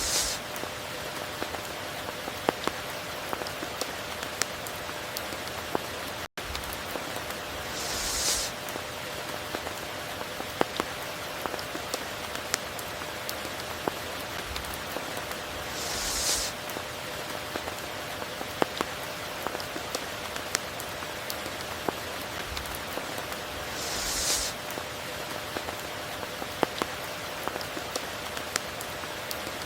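Steady rain pattering, with many individual drops ticking sharply and a brief hissing swell about every eight seconds. The sound cuts out for an instant a little after six seconds in.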